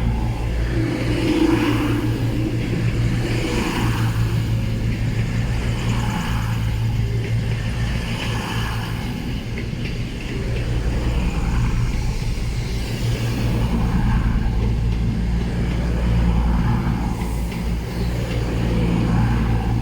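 A train running with a steady, unchanging low hum.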